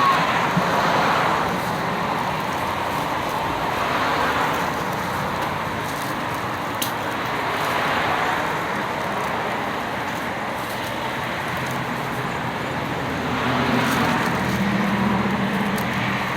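Road traffic going by: several vehicles pass one after another, each swelling and fading, with a low engine hum as one passes near the end.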